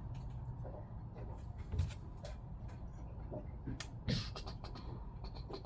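Scattered light clicks and small knocks of pump parts being handled, over a low steady hum.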